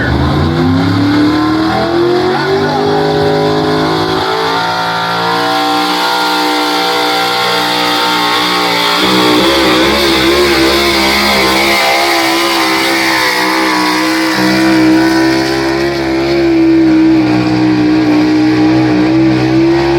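Chevrolet pickup pulling truck's engine run at full throttle on a pull down the track: loud, climbing steeply in pitch over the first few seconds, shifting pitch twice, then held high and steady.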